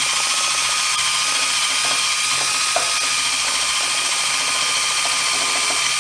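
DeWalt power drill running steadily with an abrasive attachment scouring the bottom of a glass vase, roughening the glass so the epoxy will bond. A steady high whine sits over a dense grinding hiss.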